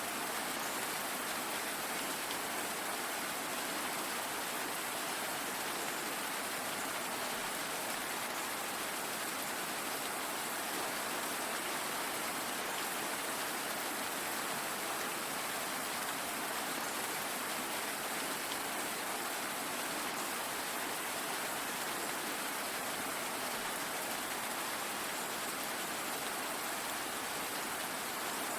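Steady rain falling, an even hiss of countless drops with no changes or single events standing out.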